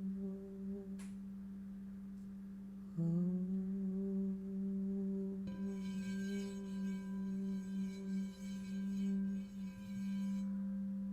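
Wordless humming toning on a low, steady pitch over ringing singing bowls. About three seconds in, a fresh hum starts slightly low and slides up to the held note, and a higher bowl tone joins about halfway through.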